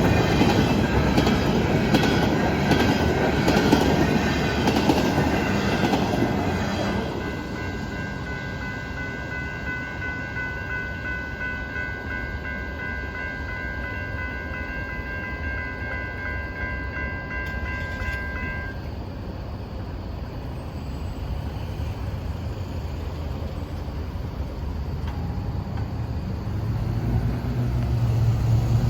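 Norfolk Southern intermodal freight train's cars rolling past with a clickety-clack, loud for the first seven seconds or so and then quieter as the train moves away. A steady high whine in several tones holds from about seven seconds in and cuts off about two-thirds of the way through. A low rumble of a road vehicle builds near the end.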